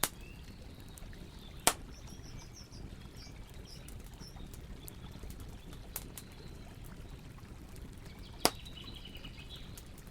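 Campfire burning with a steady crackle and four sharp pops, the loudest about a second and a half in and near the end. Small birds chirp faintly in the background.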